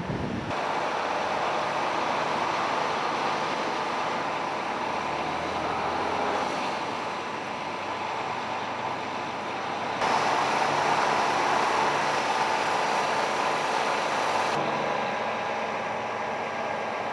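Steady vehicle noise: engines running and traffic, with a faint steady hum. The sound changes abruptly about ten seconds in and again about five seconds later.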